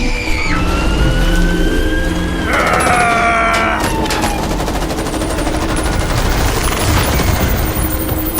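Soundtrack of action sound effects: a rapid crackling like gunfire or a fusillade, under sliding tones that rise and then fall, with a cluster of falling tones about three seconds in.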